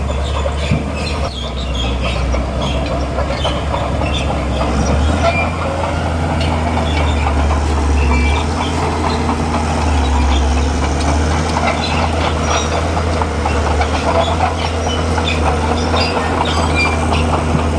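Bulldozer working: its diesel engine drones steadily while the steel tracks clank and squeal with many short metallic clicks and squeaks.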